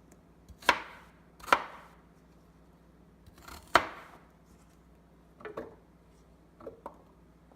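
Kitchen knife chopping carrot on a cutting board: three sharp chops spread over the first four seconds, then a few lighter knocks near the end.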